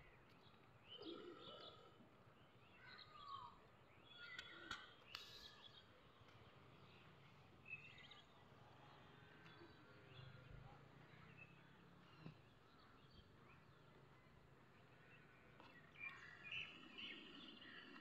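Faint outdoor ambience with distant birds chirping now and then, a few short calls in the first few seconds and a cluster near the end.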